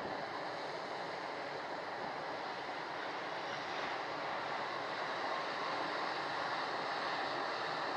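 Steady rushing, rumbling noise of a JR Freight EF510 electric locomotive slowly starting a long, heavy freight train, heard from a distance and growing slightly louder.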